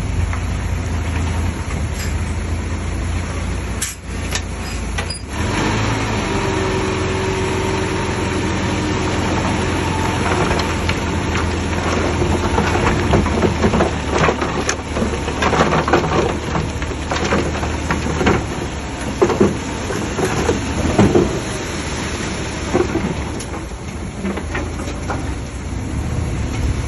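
Heavy diesel earthmoving machinery running with a steady low engine drone, and many clanks and knocks of metal and debris from about ten seconds in.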